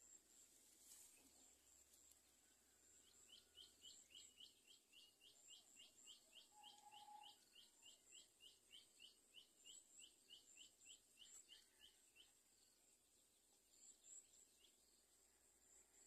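Faint series of short rising chirps from a bird, about three a second for some nine seconds, over a steady high insect buzz.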